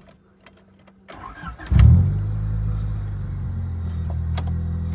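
A few light clicks, then a Honda Civic's four-cylinder engine cranks briefly and catches a little under two seconds in, flaring up loudest at first and then settling into a steady idle.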